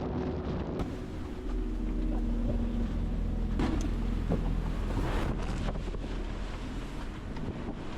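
Gale-force wind buffeting the microphone aboard a sailboat, with a heavy low rumble and two brief louder rushes around the middle.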